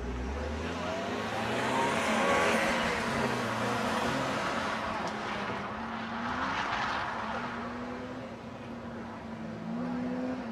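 Older Mercedes-Benz sedan's engine revving up and easing off again and again as it is driven hard through an autocross cone course.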